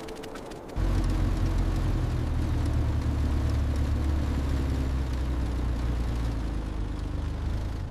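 Van engine running steadily with a deep, even hum. It starts abruptly about a second in and fades just before the end.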